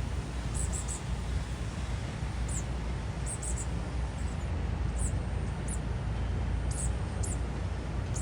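Outdoor ambience: a steady low rumble with small birds chirping, short high notes in little clusters of two or three, about every second.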